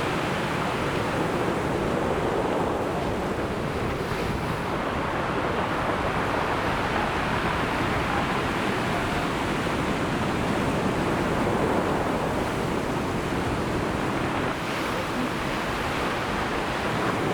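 Ocean surf washing steadily onto the shore, a continuous rush of breaking waves.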